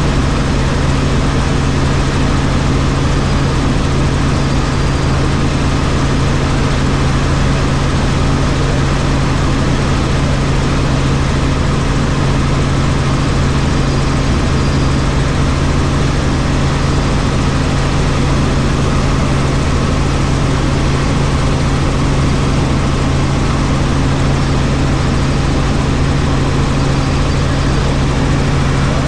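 Helicopter engine and rotors running steadily, heard from inside the cabin as a loud, even drone with a strong low hum.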